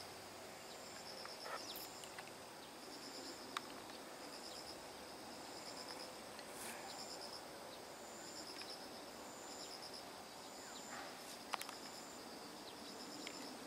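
Faint crickets chirping in an even, repeating rhythm of short pulsed trills, with a couple of small clicks.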